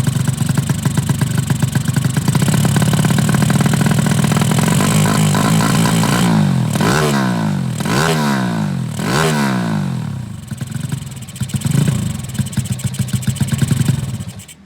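Modified 200cc underbone drag-racing motorcycle engine running loud at a fast idle. Around the middle it is blipped about four times, the pitch rising and falling with each rev, then it settles back to idle. The sound cuts off abruptly at the end.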